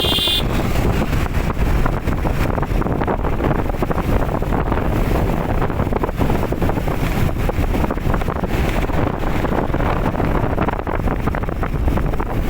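Wind buffeting the microphone over steady road-traffic noise. A vehicle horn cuts off about half a second in.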